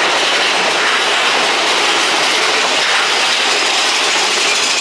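Mine-train roller coaster car running along its track, a loud, steady rushing rattle.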